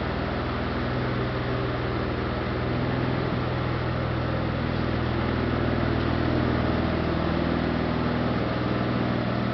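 1992 Dodge Stealth R/T Turbo's twin-turbo V6 running steadily at an even speed, without revving.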